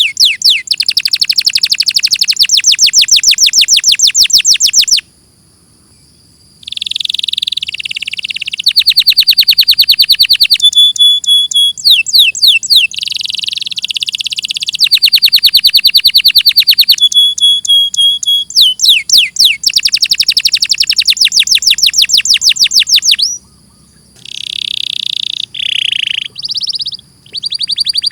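Domestic canary singing a long song of fast, high-pitched rolling trills and chirped phrases. It breaks off briefly about five seconds in and again near the end.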